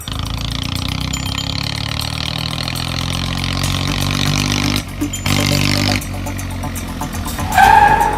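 Tractor engine running steadily, with short breaks about five and six seconds in. Near the end comes a loud, brief, horn-like tone.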